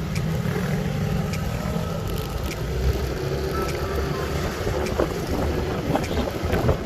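Motorbike engines running on the road while riding, a steady hum over a low rumble.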